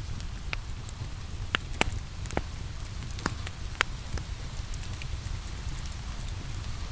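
Wood fire crackling, with a run of sharp pops in the first four seconds or so, over a steady low rumble and a constant hiss of rain.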